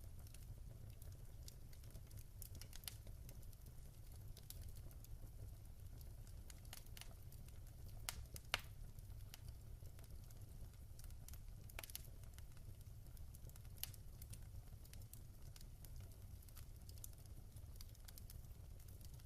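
Wood fire in a fireplace crackling: scattered sharp pops over a low, steady rumble, with one louder pop near the middle.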